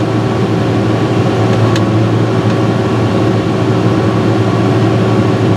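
John Deere 6068 six-cylinder diesel in a Fabtek 153 harvester running steadily at operating temperature, heard from inside the cab as an even hum, with a faint tick about two seconds in.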